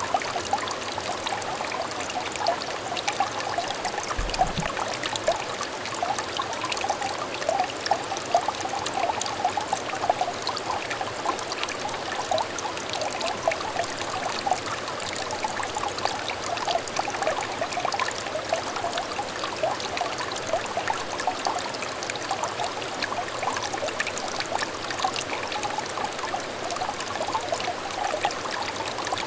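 A small stream of water trickling and burbling steadily, a dense patter of little bubbling notes without pause.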